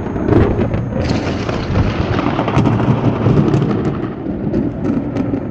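Thunder rumbling through steady rain, following a nearby lightning strike; it is loudest over the first few seconds and eases off near the end.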